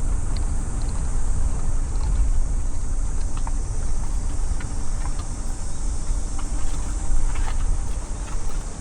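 A car driving along a road: a steady low rumble of engine and tyres, with a steady high-pitched hiss over it and faint scattered ticks.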